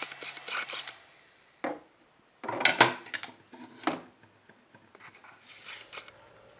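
Hard toy pieces being handled, clicking, knocking and rubbing against each other in a few separate bursts, the loudest about two and a half seconds in.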